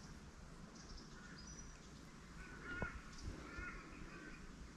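Birds calling, with short high chirps early on and lower repeated arched calls through the second half. One sharp click comes a little before the three-second mark.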